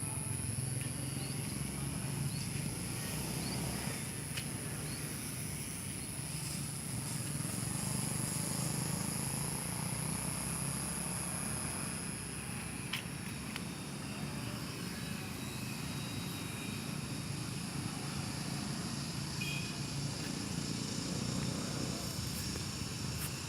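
Remote-control model airplane in flight, its motor and propeller giving a steady high-pitched whine.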